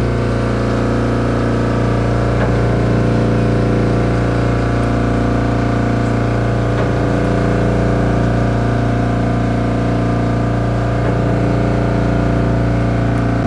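An engine running steadily at constant speed: a low, even hum made of several steady tones, with no change in pitch or level.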